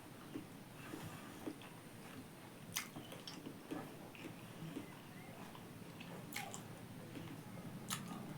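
Close-miked chewing and biting of pork, with wet mouth sounds and a few sharp clicks, the loudest about three seconds in and near the end.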